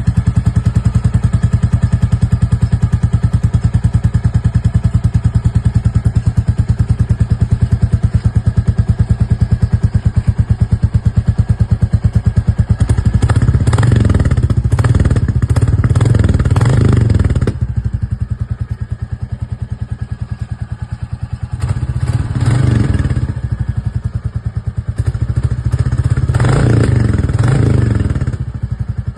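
Royal Enfield Bullet 350's single-cylinder engine idling through its exhaust with a steady, even thump, then revved: a long run of throttle about halfway through, and two shorter blips near the end, settling back to idle between them.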